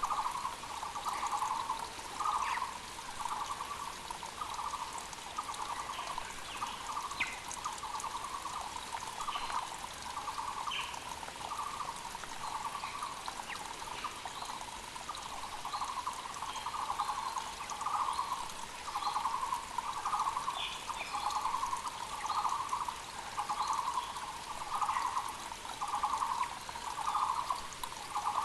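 Müller's barbet (Taiwan barbet) calling steadily: a long run of repeated trilled notes, about one a second, the loudest sound. Faint short chirps from other birds and the steady rush of a mountain creek lie beneath it.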